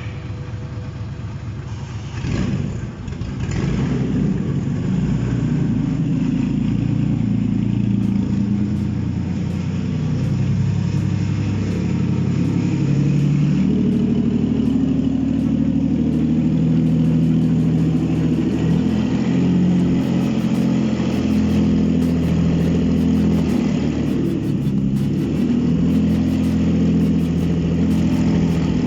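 Nissan VQ35 3.5-litre V6 on an engine test stand starting up about two to three seconds in, then running steadily, its note rising and falling a little with the throttle.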